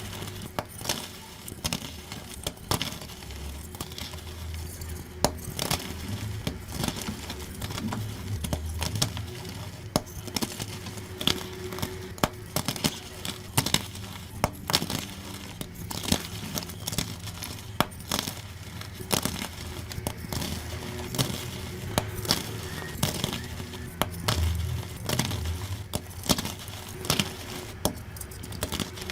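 Blocks of gym chalk being crushed and crumbled, a dense run of crisp crunches and crackles, sped up.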